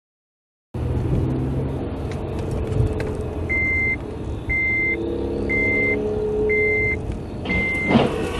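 Vehicle engine rumble cuts in just under a second in. A reversing alarm joins it about three seconds in, one high beep roughly every second. A sharp knock comes near the end.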